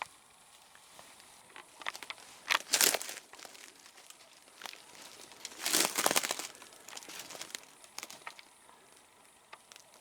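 Dry crunching and crackling of disturbed debris, with scattered small clicks and two louder crunches about three and six seconds in.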